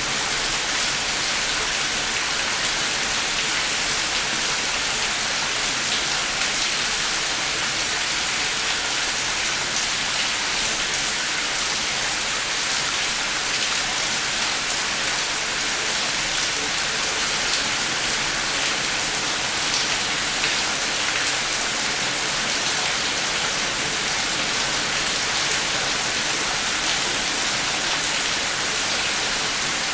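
Heavy rain falling steadily, a dense even hiss with faint drop ticks scattered through it.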